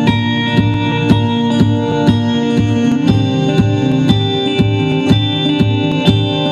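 Live band music: held keyboard chords over a steady beat of about two strokes a second.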